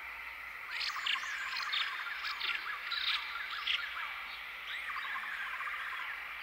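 A chorus of many small birds chirping and twittering, with short overlapping calls, busiest and loudest from about a second in until past the middle.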